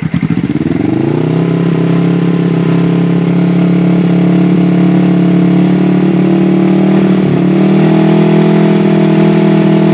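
1979 Suzuki GS425's air-cooled parallel-twin engine revved up from idle over about a second and held at steady high revs, about 5,000 RPM, with a brief wobble about seven seconds in. The revs are held for a no-load stator output test.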